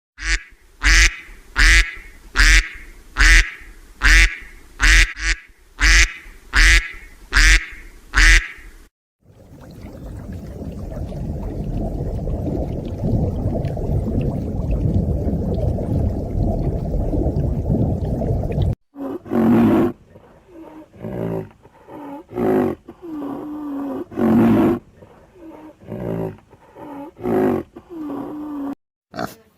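Ducks quacking in a string of repeated calls, broken in the middle by about ten seconds of a steady low rumbling noise.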